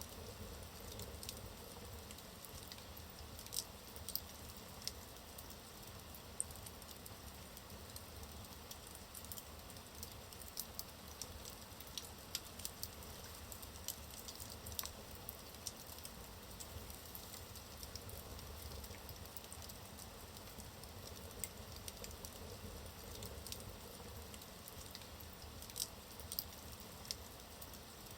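Logs burning in a fireplace: a faint steady low rumble and hiss of the fire, with scattered sharp crackles and pops of the wood, coming in small clusters.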